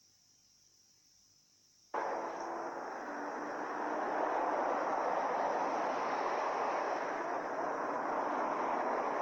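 Near silence, then about two seconds in a loud, steady rushing noise of an aircraft cuts in abruptly and carries on.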